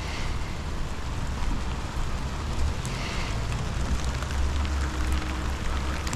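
Steady rain falling, with a few scattered drop ticks and a low rumble underneath.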